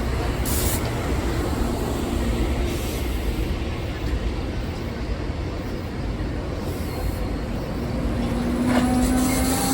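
Steady low rumble of a moving passenger train heard from on board, with a faint tone that rises slightly in pitch near the end.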